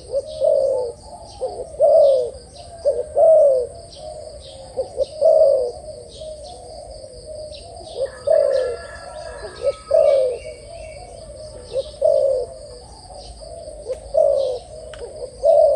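Spotted dove cooing: loud, repeated coo phrases every second or two, each a few short notes with a longer final coo. A steady high-pitched whine with small chirps runs underneath.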